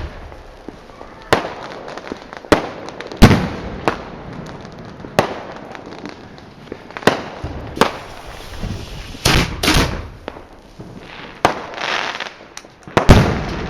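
Fireworks going off: a string of about ten sharp bangs at irregular intervals, each trailing off in a rumbling echo, with two close together near the end of the first ten seconds and a loud one near the end.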